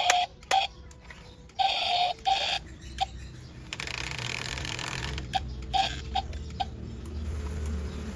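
Small electric gear motors of a homemade RC excavator buzzing in short stop-start bursts as its controls are worked, then running more steadily with a low hum.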